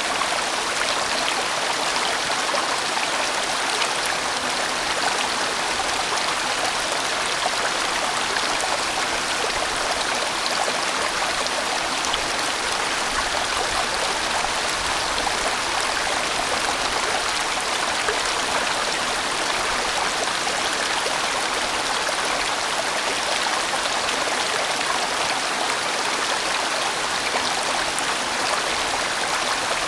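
A large valley stream flowing steadily: an even, unbroken rush of water with no rises or pauses.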